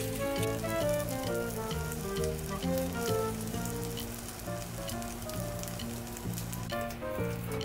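Egg-soaked bread frying in oil in a cast-iron skillet, with a light sizzle and scattered crackles, under louder melodic background music.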